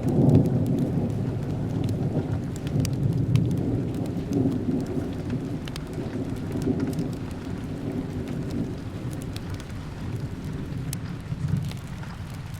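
Steady rain with a long, rolling rumble of thunder that slowly fades away, and scattered sharp crackles of a fireplace.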